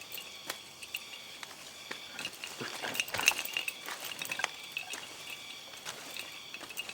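Scattered light clicks and clinks of small hard objects being handled, with a denser cluster about three seconds in.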